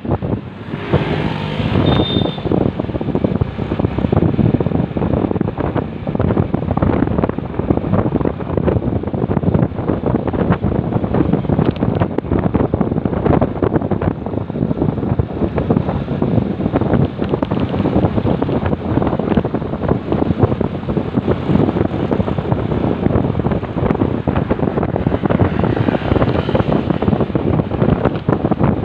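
Wind buffeting the microphone of a riding motorcyclist, a steady rough rush with constant crackling gusts, over the noise of the moving motorcycle and road.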